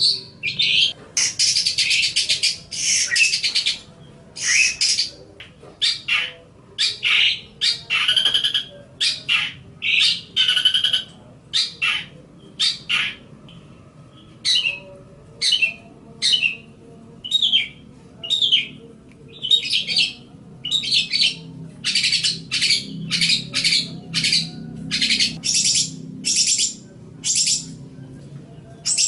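Long-tailed shrike (cendet) singing: a quick run of short, high chattering notes in phrases lasting up to about a second, with brief pauses between them.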